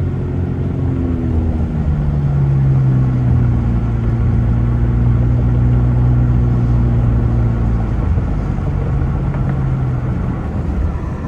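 Car engine running while driving: the engine hum rises in pitch about two seconds in, holds steady, then eases back down near the end.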